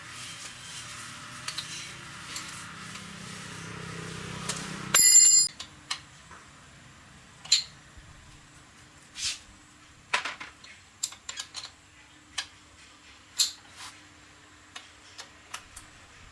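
A steady hiss, then a short, loud metallic ring about five seconds in, followed by scattered light clinks and taps of metal parts and tools being handled.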